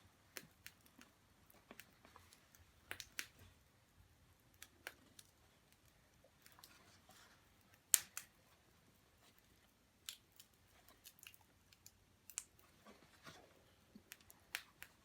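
Sparse, irregular small clicks and taps, the sharpest about eight seconds in, against a quiet room.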